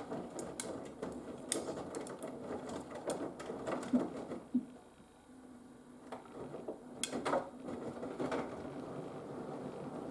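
Haier HW120 front-loading washing machine turning its drum during the wash: wet laundry tumbling and sloshing with irregular clicks and knocks, easing off briefly about halfway through.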